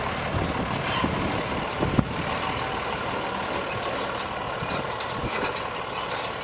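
Truck engines idling and running in the open, a steady rumble with a brief knock about two seconds in.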